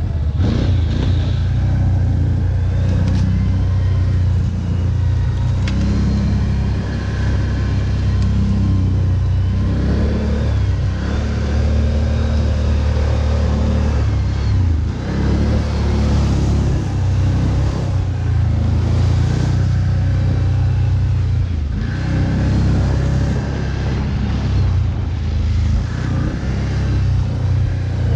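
ATV (quad bike) engine running under load and revving, its pitch rising and falling repeatedly as the throttle is worked.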